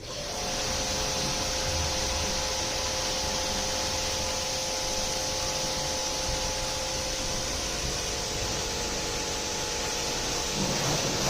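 Pressure washer spraying water in a steady hiss, with the machine's motor giving a steady whine underneath.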